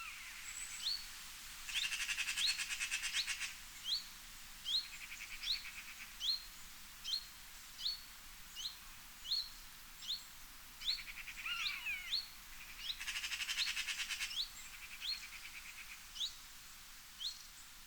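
Birds calling: one bird repeats a short, high rising note about once a second, joined twice by a longer rapid rattling trill and once by a brief falling call.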